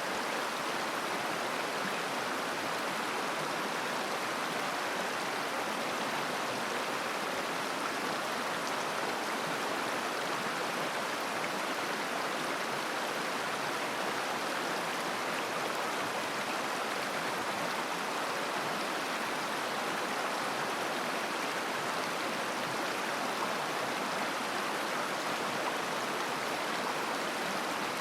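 A river babbling, a steady, unbroken rush of flowing water.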